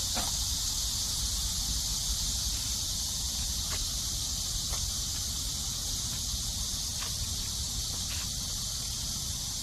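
Chorus of grass insects chirring in a steady high hiss, over a steady low rumble, with a few faint ticks.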